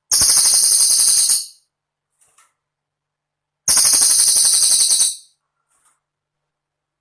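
Cililin bird singing a high, rapid, jingling trill, about a second and a half long, twice, with a couple of seconds of silence between the trills.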